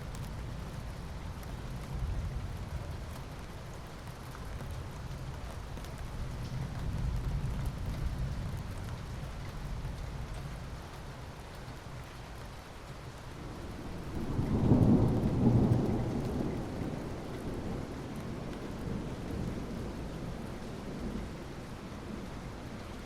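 Steady rain with a low rumble of thunder underneath, and a louder roll of thunder a little past the middle that swells and fades over about two seconds.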